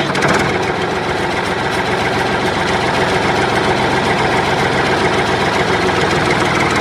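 A small motor running steadily with a fast, even ticking rattle.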